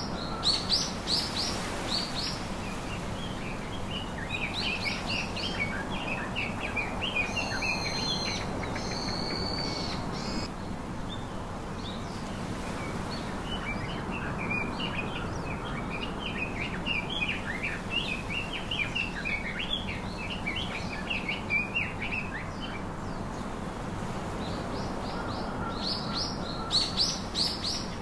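Several small birds chirping and twittering over steady background noise. Quick runs of high chirps come near the start and near the end, and two longer whistled notes come about eight seconds in.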